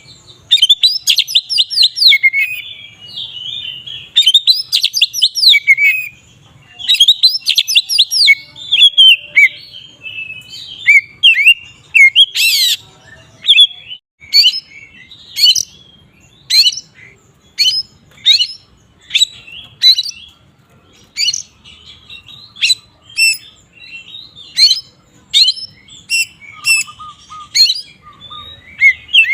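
Oriental magpie-robin singing loudly in full song: dense runs of warbled, trilled phrases for about the first ten seconds, then a string of separate sharp whistled notes, roughly one or two a second.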